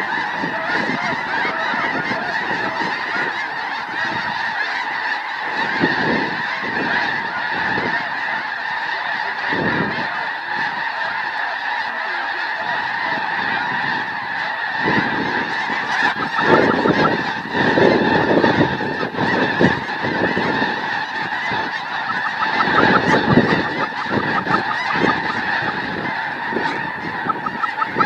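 A large flock of snow geese calling all at once: dense, continuous overlapping honking with no break.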